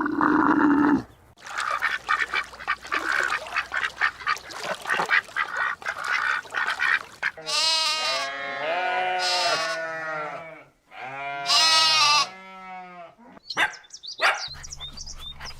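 Animal calls in a run of short clips: a dense stretch of many rapid overlapping calls, then two long calls with a wavering pitch.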